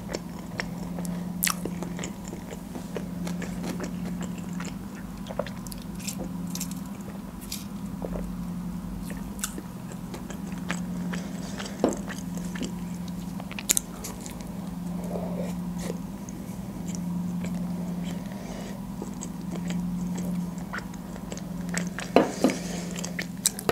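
Close-miked chewing of a shawarma wrap in lavash: soft chewing with many scattered sharp mouth clicks and smacks, a few louder ones near the end. A steady low hum runs underneath.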